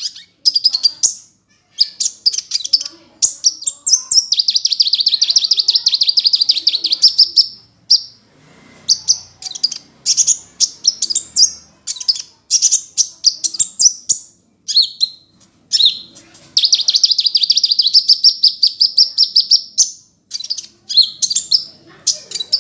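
A sunbird ('kolibri') singing persistently. Its song is a rapid series of sharp high chirps broken by two long, fast rattling trills, one a few seconds in and one past the middle.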